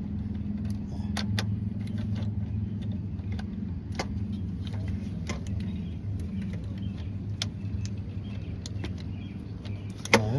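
Scattered light metallic clicks and clinks of hand tools and metal parts being handled, over a steady low hum.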